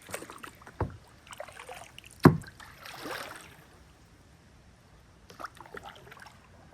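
Kayak paddling: soft swishes of paddle strokes through the water, with a few knocks, the loudest a sharp one about two seconds in.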